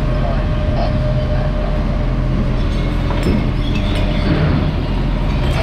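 Garbage truck's diesel engine running steadily: a continuous low rumble with a steady hum.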